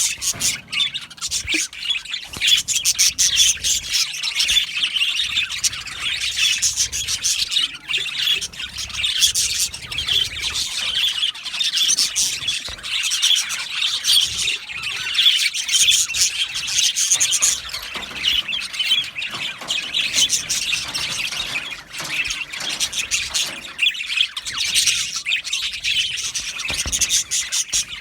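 A flock of budgerigars chattering, chirping and squawking together in a continuous, busy stream of overlapping calls.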